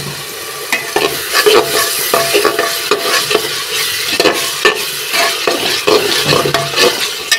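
Spiced tomato masala sizzling in hot oil in an aluminium pressure cooker while a steel spatula stirs it, scraping and knocking against the pot's base many times at an uneven pace. The masala is being fried until the oil separates.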